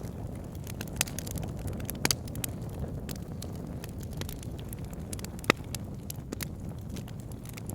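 Wood fire in a log burner: a steady low rumble of flames with scattered sharp crackles and pops of burning logs, the loudest pop about five and a half seconds in.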